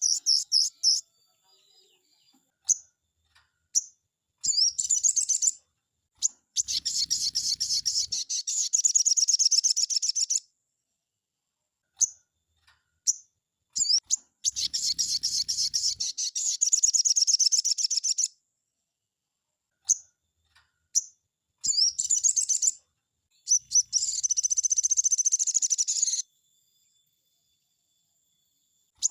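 Sogon (crimson sunbird) singing in long, rapid, high-pitched phrases of a few seconds each, made of fast-repeated chirps, with short single chirps and pauses between the phrases.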